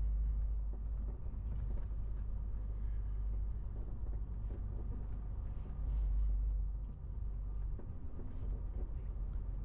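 MAN TGX 18.470 truck on the move: a low, steady rumble of its diesel engine and road noise, swelling twice.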